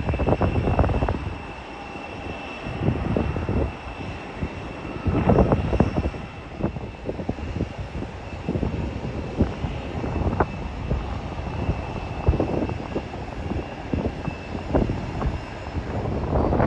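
Airliner jet engines running with a steady high whine, while gusts of wind buffet the microphone in irregular low thumps.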